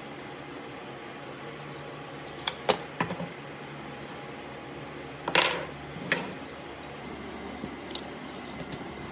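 A few sharp knocks and clacks of workshop handling over a steady low hum. The loudest is a longer clatter about five seconds in.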